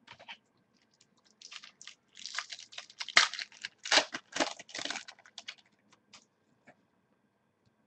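Football trading cards and their pack wrapper being handled: a few seconds of quick crinkling and clicking, loudest in the middle, with scattered single clicks around it.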